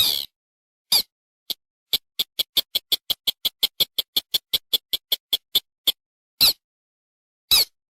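Recorded rail lure call played back: a few single harsh calls, then a rapid run of short notes at about five a second lasting about four seconds, then two more single calls.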